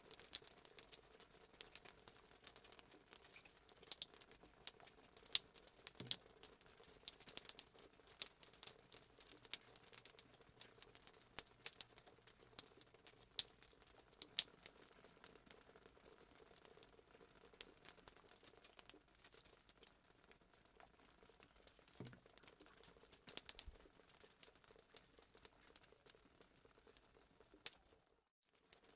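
Fireplace sound effect: a wood fire crackling with quick, irregular pops and snaps, cut off briefly near the end.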